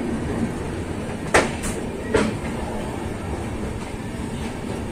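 Antyodaya Express passenger coaches rolling out of a station, heard from on board: a steady rumble with a few sharp clacks of the wheels over rail joints, two of them a little more than a second in and one fainter near the end.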